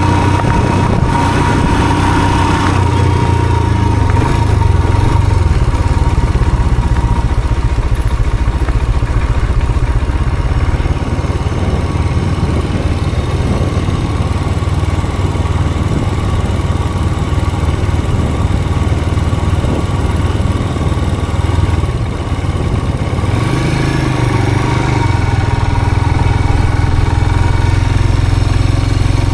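A vehicle's engine running steadily while driving, its note rising briefly and settling again about three-quarters of the way through.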